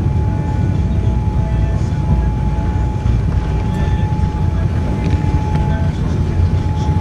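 Boeing 787-9 passenger cabin after landing: a steady low rumble of engines and airframe, with a steady thin whine running through it.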